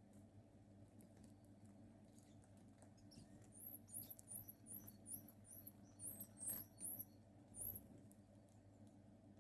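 A small bird calling: a run of about ten thin, very high notes, each rising and curling over, evenly spaced about twice a second for some four seconds, starting a few seconds in.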